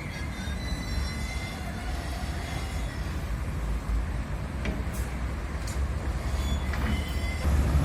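Steady low rumble of heavy vehicles with faint high squeals and a few sharp clanks.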